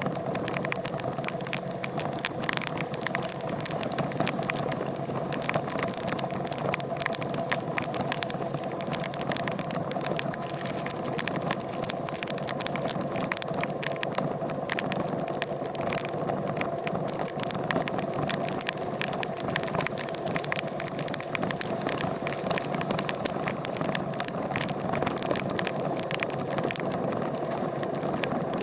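A steady mechanical running sound with constant rattling clicks throughout, of the kind a running vehicle makes.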